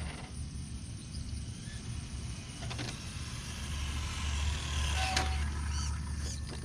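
Electric motor whine of a radio-controlled drag car being driven, swelling to its loudest about four to five seconds in, with a low rumble underneath and a few faint clicks.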